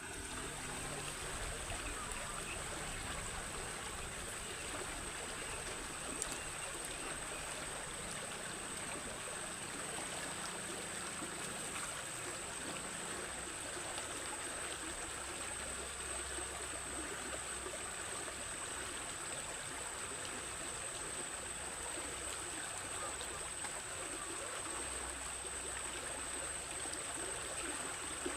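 Stream water flowing in a steady, even rush, with a thin, steady high-pitched tone held above it.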